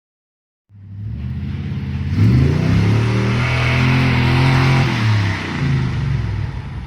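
Truck engine revving under acceleration. It cuts in abruptly, climbs in pitch about two seconds in, holds high, then drops back a little after five seconds and eases off.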